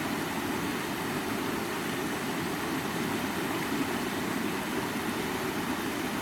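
Stream water running over rocks, a steady low rushing noise.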